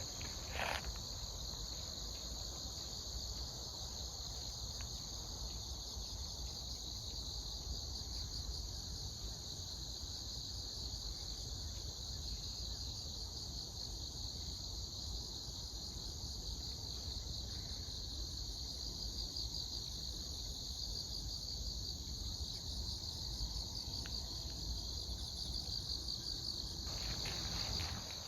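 Chorus of autumn crickets and other grass insects chirping steadily in a high, unbroken trill, over a low rumble.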